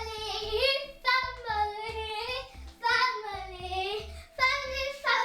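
A child singing a short melodic jingle in phrases about a second long, over a backing track with a steady low beat about twice a second.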